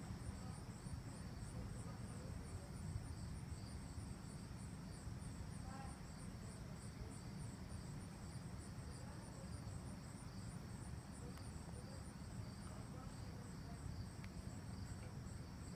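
Insects chirping in an even, high-pitched rhythm of about three to four pulses a second, over a steady low rumble.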